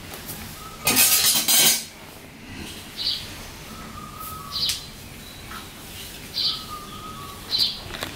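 A bird calling over and over, a short high chirp about every second and a half, some with a steady whistled note. About a second in there is a loud rustling clatter of things being handled that lasts under a second.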